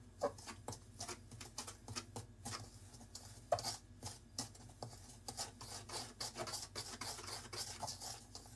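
Dumpling dough being mixed or worked in a bowl: a run of irregular rubbing and scraping strokes.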